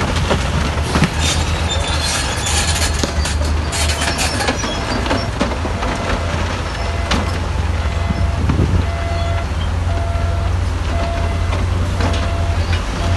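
Heavy diesel construction machinery, a crawler bulldozer and dump trucks, running steadily with a deep engine rumble. Scattered knocks and clatter come in the first few seconds. Over the second half a short beep repeats about every two-thirds of a second.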